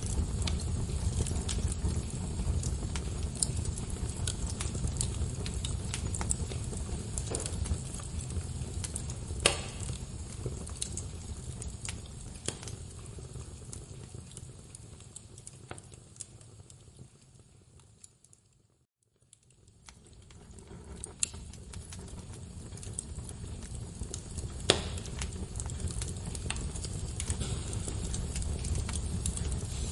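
Wood fire crackling: a steady low rumble of flames with scattered sharp pops of burning wood. About two-thirds of the way through, the sound fades away to silence for about a second, then fades back in.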